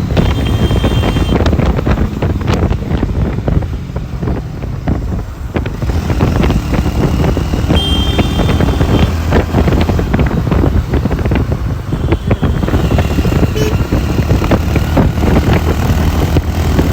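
Wind buffeting the microphone of a moving motorcycle, with the rumble of engine and road underneath, steady throughout. A few brief high thin tones sound faintly over it, once near the start, once in the middle and once near the end.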